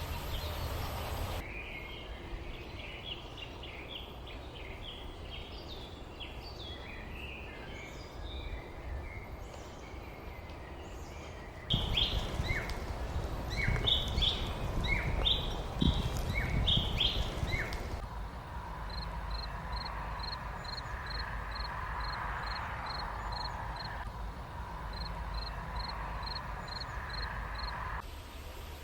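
Small birds chirping outdoors, with a low steady rumble of wind or distant background noise. The chirping changes abruptly twice, as between spliced clips: a scatter of chirps, then a louder, busier stretch of song, then a regular series of short high chirps about two a second.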